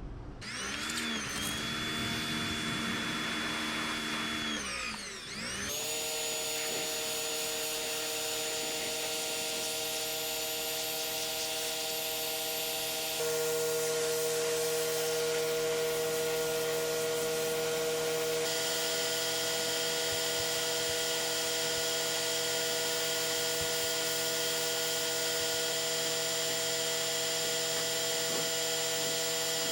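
Pressure washer running steadily, its motor hum over the hiss of the water spray. The pitch dips and recovers twice in the first few seconds, as the machine takes load.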